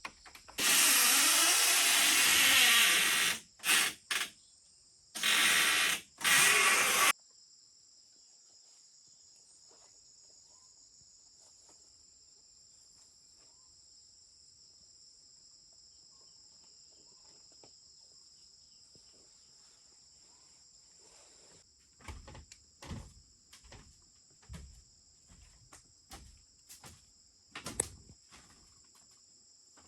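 Steady high chirring of insects, with loud rushing noise in several bursts during the first seven seconds and a scatter of short knocks and clicks near the end.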